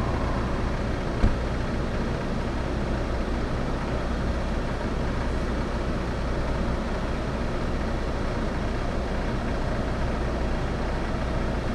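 Car engine idling steadily while the car stands still, a low even hum. A single sharp knock sounds about a second in.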